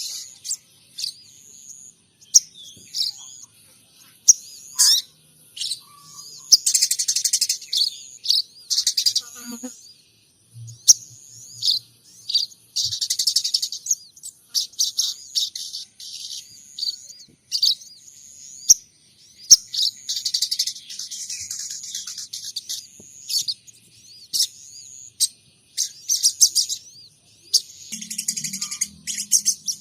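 Sogon trotol songbird singing a long run of high chirps and fast buzzy trills, mixing in imitations of munia and tree sparrow calls.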